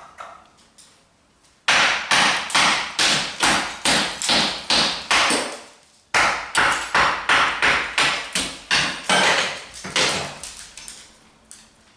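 Hammer striking again and again, chipping away at the old fireplace opening: two runs of quick, even blows, about two to three a second, with a short break about six seconds in.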